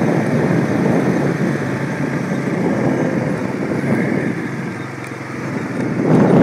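Quad (ATV) engine running while riding, mixed with wind rumbling on the microphone. The noise eases about five seconds in and grows louder again near the end.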